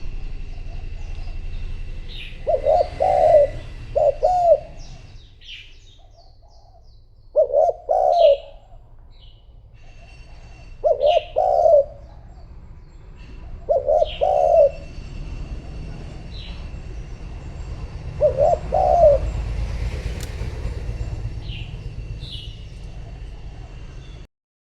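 Spotted dove cooing: five phrases of two or three low coos, one every three to four seconds, with small birds chirping thinly between them.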